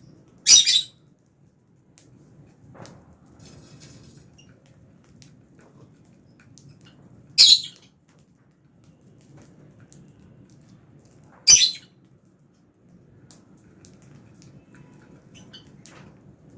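Lovebirds in an aviary giving three loud, shrill squawks several seconds apart, with faint chirps and small ticks between them over a low steady rumble.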